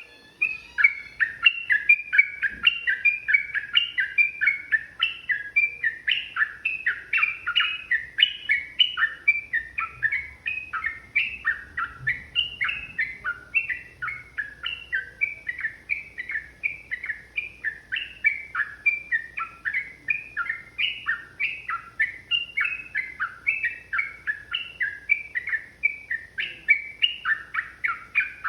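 Yellow-vented bulbul singing a long, unbroken run of rapid chattering notes, about three a second.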